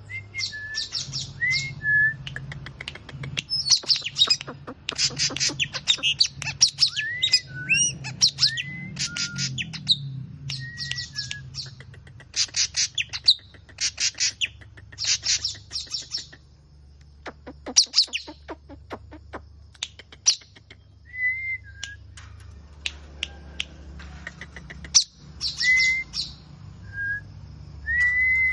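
A songbird singing: repeated bursts of rapid, high chattering notes, each about a second long, alternating with short slurred whistles, with a pause in the phrases past the middle.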